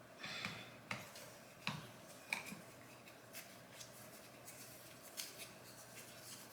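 Faint clicks and short scrapes of small eyebrow-waxing tools being handled, with a few sharper ones in the first two and a half seconds and lighter ticks after.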